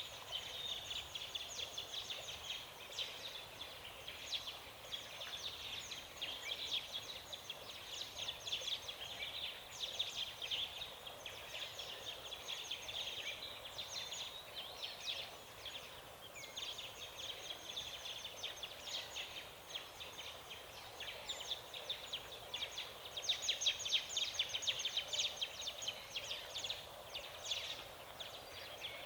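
Forest ambience: a dense, unbroken chorus of high, rapid chirps and ticks that swells and thins, loudest about three-quarters of the way through, over a faint low hiss.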